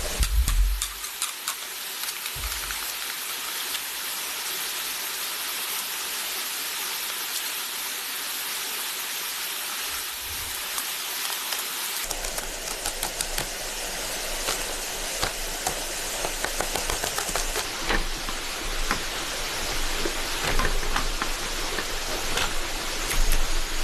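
Steady rain falling in a forest, a constant hiss. From about halfway it changes abruptly to heavier rain with many drops pattering on a surface.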